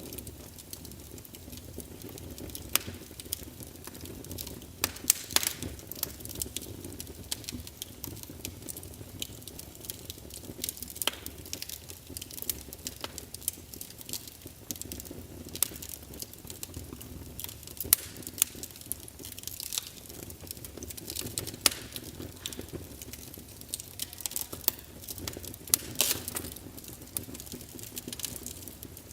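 Wood fire of burning logs crackling: irregular sharp pops and snaps, a few louder ones, over a steady low rumble of the flames.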